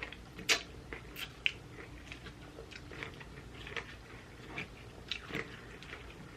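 Close-up chewing and crunching of food in the mouth, in a string of sharp, irregular crackles, the loudest about half a second in.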